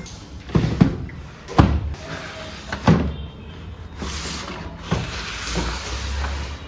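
A handful of sharp knocks and clatters with rustling between them, like things being handled and set down.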